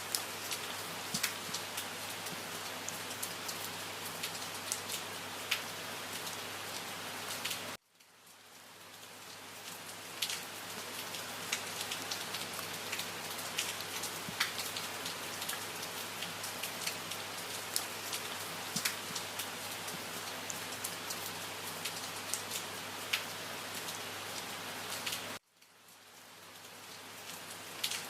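Steady rain falling, with individual drops ticking sharply over an even hiss. Twice, about eight seconds in and near the end, the rain cuts out abruptly and fades back up over a couple of seconds.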